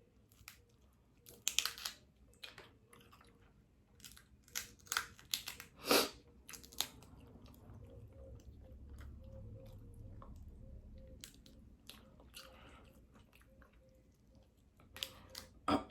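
Close-up eating sounds: chewing and biting seafood, with scattered sharp cracks and clicks of crab shell and a few louder crunches.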